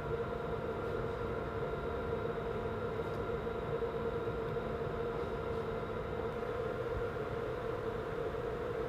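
Steady machine hum: a constant drone of several fixed tones over a low, even rumble, holding level throughout.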